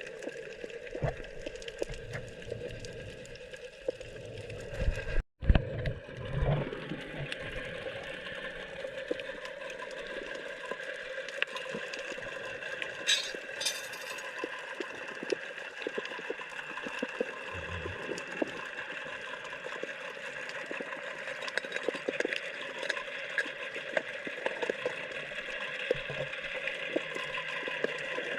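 Water sloshing and gurgling over a steady droning hum, with a few knocks about five seconds in.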